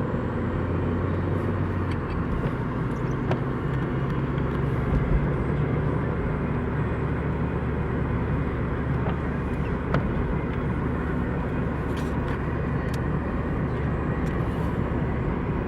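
Steady engine hum and road noise from inside a small hatchback car driving on snowy roads.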